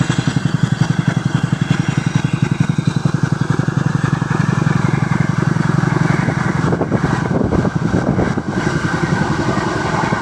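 Chinook tandem-rotor helicopter, its rotors beating in a fast, steady pulse of about ten beats a second; the beat turns rougher and less even about seven seconds in.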